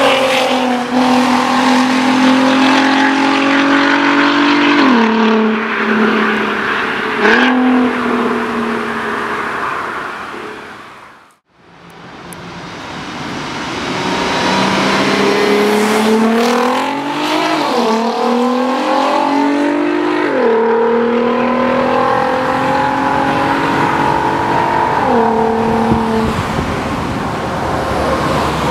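Exhaust of a VW Golf R32 Mk5's 3.2-litre VR6 with a Capristo exhaust, the car accelerating hard through the gears: the pitch climbs and falls off sharply at each upshift. The sound fades away almost completely about a third of the way in, then builds up again for further upshifts.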